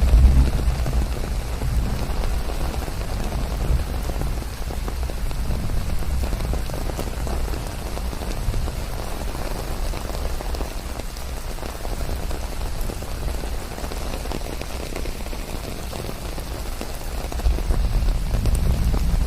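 Steady rain falling, an even hiss of many drops. A deep low rumble under it is strong at the start, dies down, and swells again near the end.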